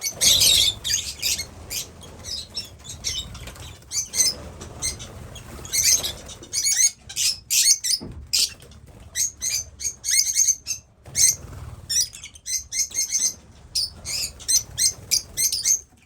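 Lovebirds chirping in rapid, sharp, overlapping calls, with wing flapping.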